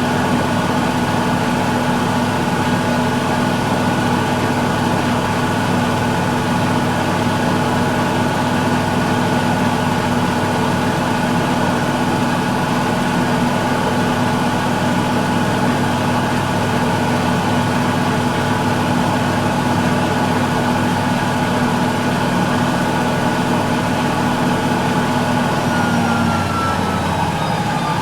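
Miele Little Giant PWM 507 commercial washing machine in its final 1200 rpm spin: a steady hum and whine from the drum at full speed. Near the end the pitch starts falling as the drum begins to slow down.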